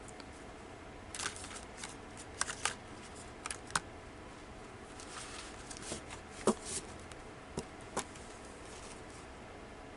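Tarot cards being shuffled by hand: a scattered series of short, irregular card noises between about one and eight seconds in.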